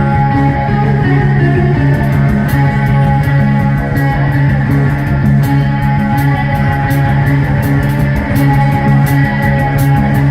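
Live rock band playing: guitars and bass hold a steady riff, and drums with cymbal hits come in about two seconds in.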